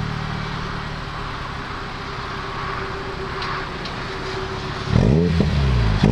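Honda Civic Type R EP3's 2.0-litre K20 four-cylinder engine idling steadily through a Megan Racing aftermarket muffler, then blipped into two quick revs about five seconds in.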